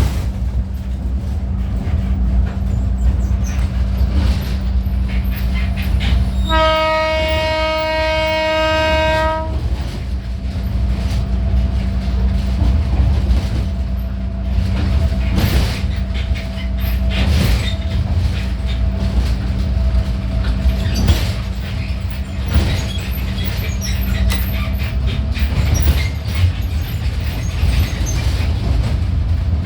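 Train running with a steady low rumble and clattering wheel clicks on the rails. About seven seconds in, the horn sounds once, a single steady tone held for about three seconds.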